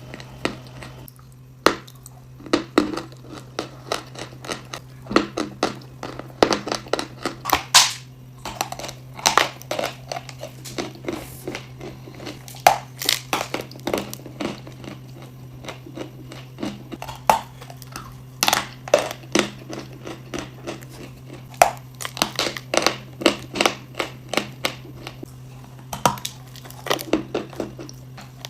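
Dry chalk and clay crunching and crumbling close to the microphone: irregular clusters of sharp, crackling crunches with short pauses between them, over a steady low hum.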